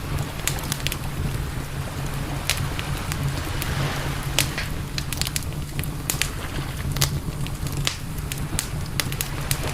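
Campfire crackling, with many sharp pops at irregular intervals over a steady low rumble.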